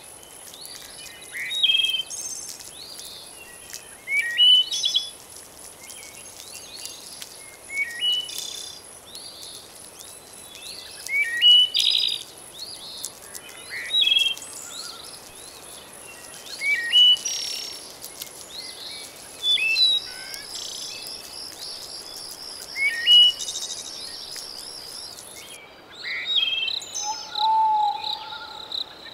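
Birds calling in short chirping phrases that recur every two to three seconds, over a steady high-pitched insect drone that cuts off suddenly near the end. A faint even hiss runs underneath.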